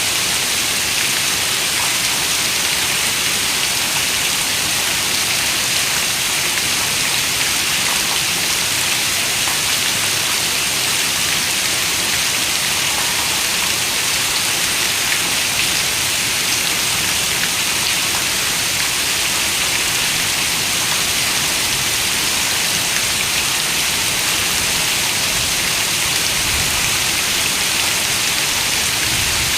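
Heavy rain falling on a window: a dense, steady hiss of drops with no let-up.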